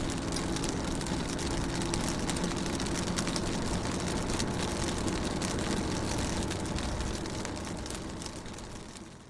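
Rain hitting a car's window, a dense hiss of many small drop ticks with a low steady hum underneath. The sound fades down over the last couple of seconds.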